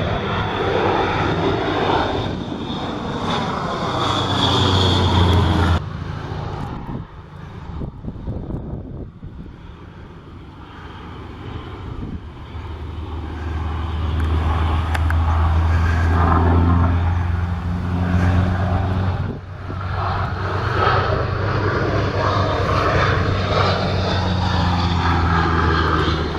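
Antonov An-2 biplane's nine-cylinder radial engine and propeller droning in a flypast, swelling and fading as the plane passes. The sound breaks off abruptly about six seconds in and again near the three-quarter mark.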